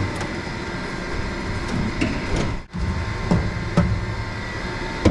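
A few sharp knocks and thuds from fitting a wooden brace and a salt spreader into a dump truck bed, over a steady hum. The sound drops out briefly about halfway through, and the knocks come in the second half.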